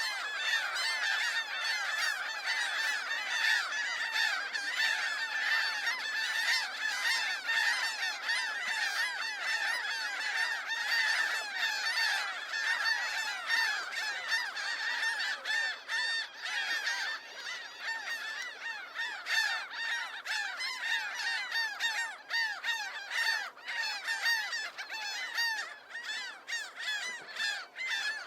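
A large flock of birds calling continuously, with many short calls overlapping in a dense din.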